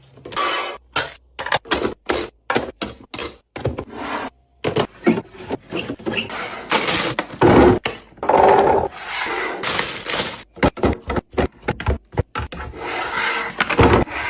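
Snacks and containers being handled and set into a refrigerator: irregular knocks, scrapes and rustling of packaging.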